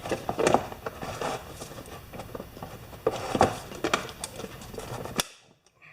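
Hand rivet gun and pop rivets being handled and worked: scattered light metallic clicks, knocks and rattles, with one sharp snap about five seconds in, after which the sound drops abruptly to near silence.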